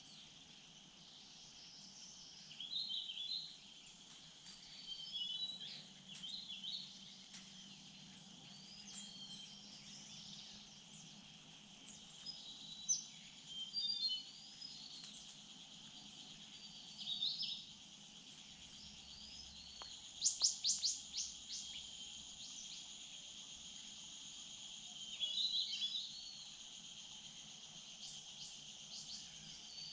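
Steady, high-pitched chirring of insects in the forest, with small songbirds calling in short phrases of quick chirps every few seconds and a brief rapid trill about two-thirds of the way in.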